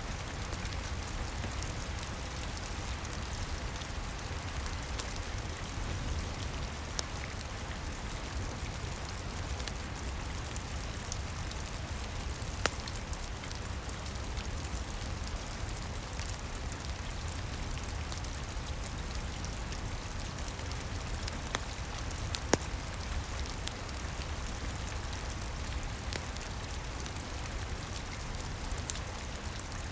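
Steady rain falling on a roof with a low rumble underneath, and a few sharp pops from a crackling wood fire, the loudest about halfway through and two-thirds of the way in.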